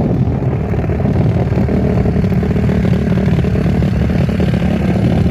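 Snowmobile engine running steadily, a dense rapid pulsing with no rise or fall in speed.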